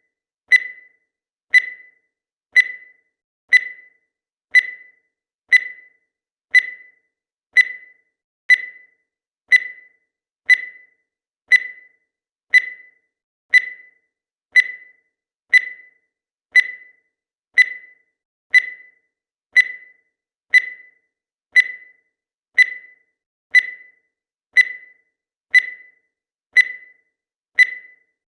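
Countdown timer's electronic tick: one short, high beep each second, each fading quickly, all at the same pitch.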